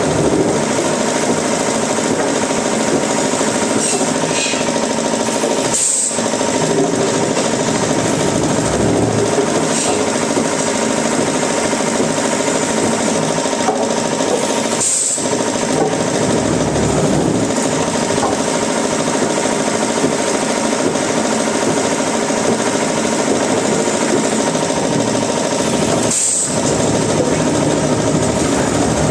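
Woodworking machinery running steadily: a loud, continuous mechanical din that dips briefly three times.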